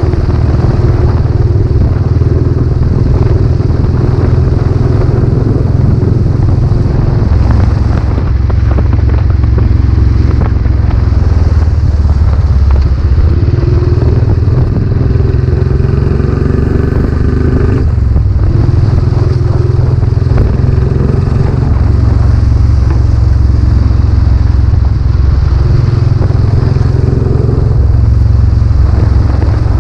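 Royal Enfield Classic 500's single-cylinder engine running through a new aftermarket silencer under way, its note rising and falling several times as the throttle opens and closes.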